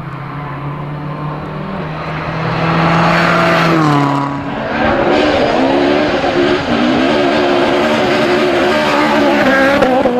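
Rally car engine at high revs. Its pitch climbs, drops sharply about four seconds in, then rises and falls repeatedly as the driver works the throttle.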